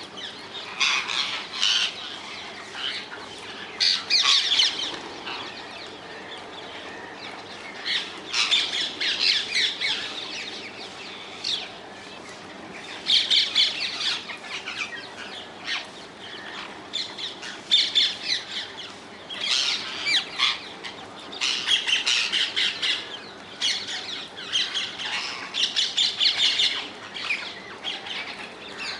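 Wild rose-ringed parakeets (Indian ringneck parrots) giving harsh, screeching squawks in repeated bouts of rapid calls, with short quieter gaps between.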